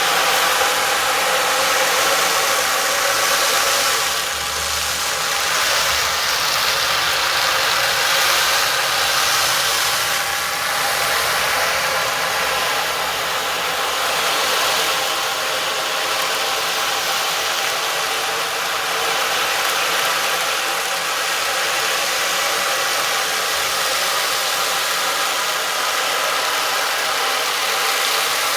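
Sustained drone of sound-healing instruments: several steady ringing tones layered over a bright, shimmering wash, swelling gently in level.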